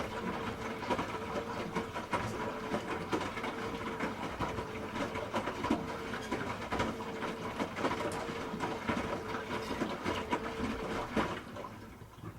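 Hoover H-Wash 300 Plus washing machine running: a steady motor hum with many irregular clicks and knocks, dying away about eleven and a half seconds in.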